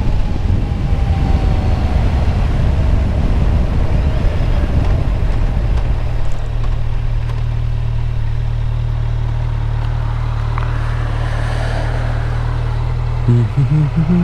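Motorcycle engine running, with a rough rumble for the first few seconds that settles into a steady, even low drone about halfway through.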